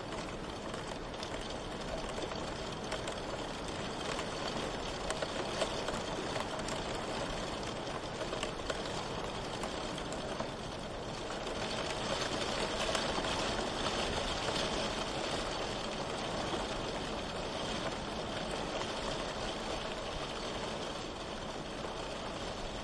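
Steady rain, a dense patter of drops, swelling slightly a little past halfway.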